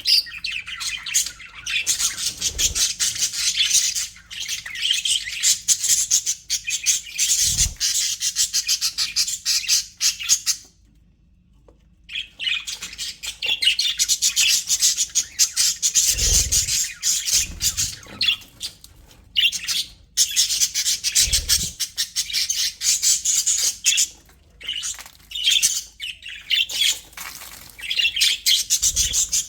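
A group of budgerigars chattering and chirping in a dense, rapid stream of high warbles and squawks. The chatter breaks off for about a second and a half around a third of the way in, then resumes. A few soft low thumps are heard under it.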